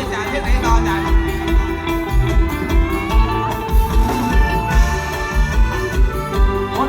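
Band music without vocals: an instrumental passage with a steady kick-drum beat about twice a second under a sustained lead melody.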